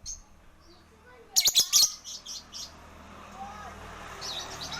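Lovebird giving its 'ngekek' call: a loud run of rapid, high chirps about a second in, lasting just over a second, then softer scattered chirps.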